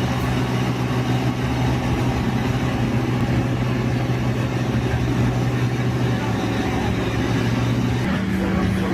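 A vehicle engine running steadily with a constant hum; about eight seconds in, its tone steps up to a higher pitch.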